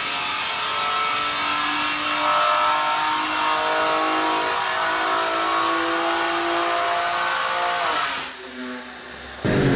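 BMW M3 Competition's twin-turbo straight-six, breathing through a Scorpion downpipe and catback, at full throttle on a chassis dyno in fifth gear. The revs climb steadily, loud, until the throttle comes off about eight seconds in and the revs fall away.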